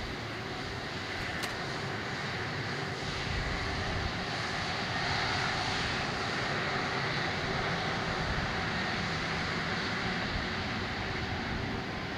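Jet airliner's engines at takeoff thrust: a steady rushing roar with a faint hum under it, swelling a little about four seconds in.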